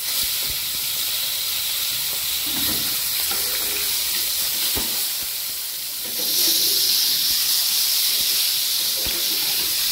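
Chunks of eggplant (brinjal) sizzling as they fry in hot oil in a kadai, with a few taps of a metal spatula as they are turned. The sizzle grows louder about six seconds in.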